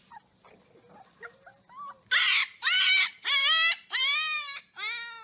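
Husky puppy whining in a run of about five drawn-out, high-pitched calls, each about half a second long and bending in pitch, starting about two seconds in after a quiet stretch.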